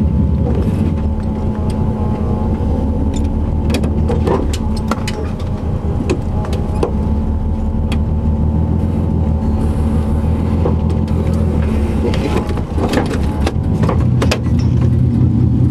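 Car engine running at low, steady revs, heard from inside the cabin, with scattered clicks and knocks.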